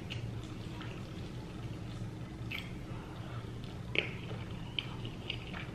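Close-miked chewing of a mouthful of food, with wet smacking and clicking mouth sounds, the sharpest about four seconds in, over a low steady hum.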